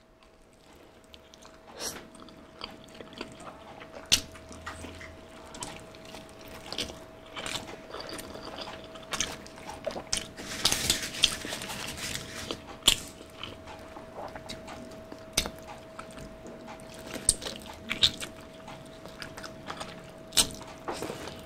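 Close-up biting and chewing of crispy Jollibee Spicy Chickenjoy fried chicken: sharp crunches of the fried skin and wet chewing, with a busier stretch of crunching around ten to twelve seconds in.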